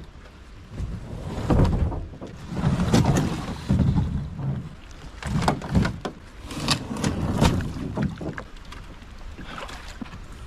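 Canoe being paddled: repeated splashy strokes of the paddle in the water, with knocks on the hull, about one every second or so.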